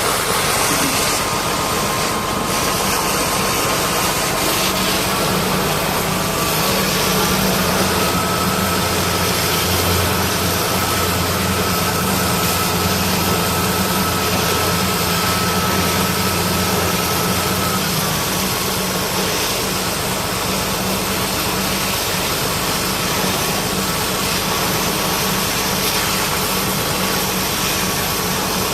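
High-pressure washer running while a heavy machine is sprayed down: a steady engine-and-pump hum under a constant hiss of spray. A thin whine in it steps up slightly about seven seconds in and falls back at about eighteen seconds.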